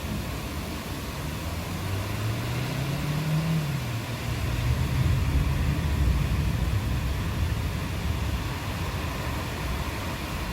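Steady rainfall hiss, with a low rumble that swells about two seconds in, peaks midway and slowly fades, carrying a faint pitch that rises and then falls.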